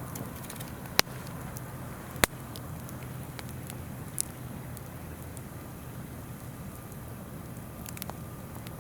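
Wood campfire crackling with a few sharp pops, the two loudest about one and two seconds in, over the steady rush of a river.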